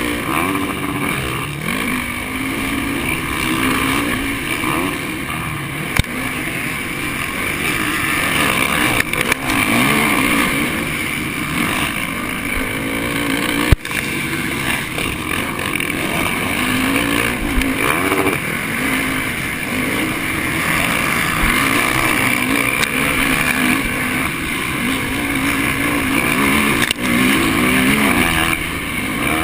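Honda 450 motocross bike's four-stroke single-cylinder engine revving up and down continually under race riding, over a steady rush of noise. A few sharp knocks stand out, the loudest about fourteen seconds in.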